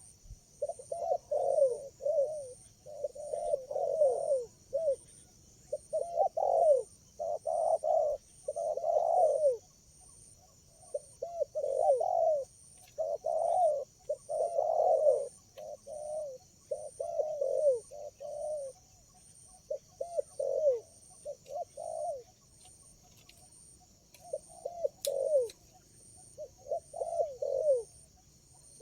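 Spotted doves (tekukur) cooing: phrase after phrase of short, falling coos follows almost without a pause. A steady high hiss with faint regular pulses runs behind them.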